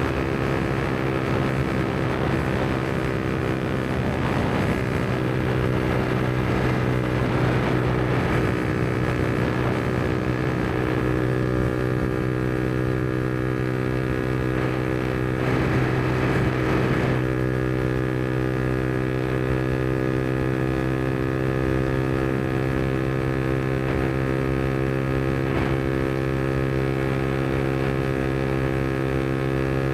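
Yamaha MT-125's single-cylinder four-stroke engine, breathing through a Black Widow aftermarket exhaust, running at a steady, unchanging engine speed. Rushing noise rises over it briefly twice, about four seconds in and again past the middle.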